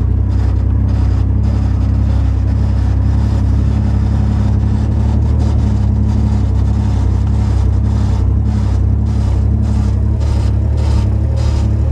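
Chevy pickup's engine running under load, a steady low drone heard from inside the cab, with a scatter of faint clicks, thickest near the end. The owner puts the truck's stuttering under load down to an electrical fault he has not found.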